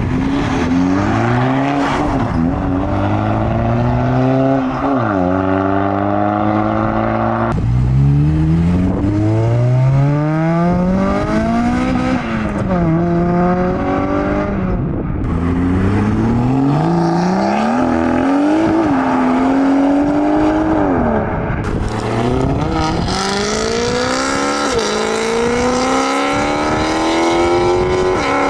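Modified cars' engines accelerating hard, each rev rising in pitch and dropping sharply at a gear change, over and over. The sound changes abruptly a couple of times, as from one car to the next.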